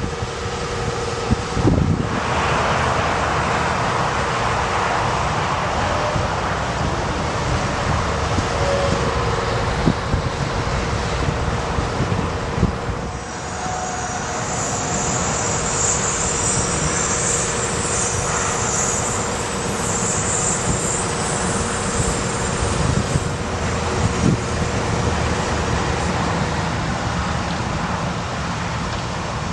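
Ford F650 bucket truck's engine running steadily, with a steady whine held through it. About halfway through, a high hiss comes in for roughly ten seconds.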